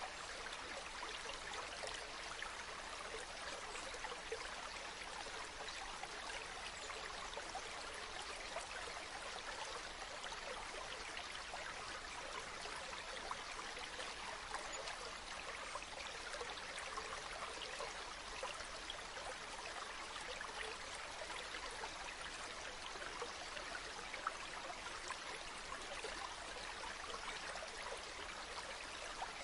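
Water running and splashing steadily, like a stream or small waterfall, with fine bright splashing over a constant rush.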